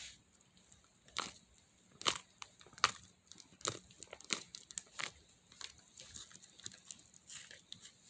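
Slime being squeezed and stretched by hand, giving irregular crackling clicks and crunches.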